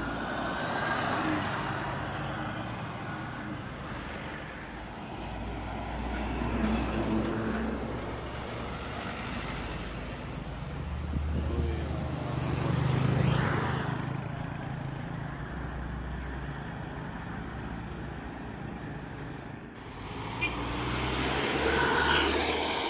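Road traffic passing: vehicles go by one after another, each swelling and fading, over a steady low diesel-engine drone.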